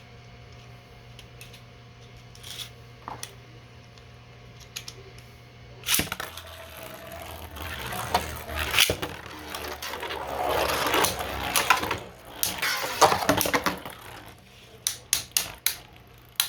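Two 3D-printed beyblades launched into a stadium about six seconds in, spinning and clattering against each other with repeated sharp hits for about eight seconds. A few clicks before the launch and a few separate clicks near the end.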